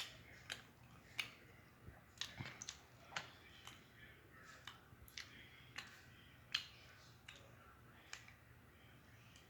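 Faint, irregular mouth clicks and smacks of someone chewing food, about one or two a second.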